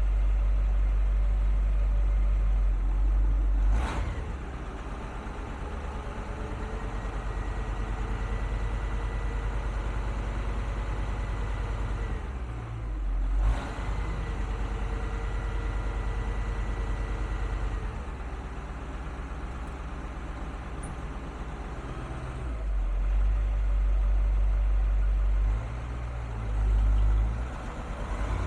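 1978 GMC Brigadier tandem truck's engine running, a low rumble that swells and eases in long stretches, louder at the start and again near the end. Two sharp knocks come about 4 and 13 seconds in.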